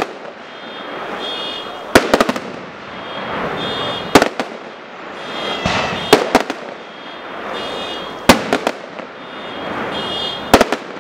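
Display fireworks bursting overhead: a loud bang about every two seconds, five in all, each followed by a few quick cracks, with a rushing hiss that swells between the bursts.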